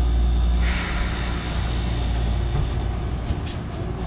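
Inside an electric commuter train as it starts to pull away from a station: a steady low hum, a brief hiss about a second in, and a few faint clicks near the end.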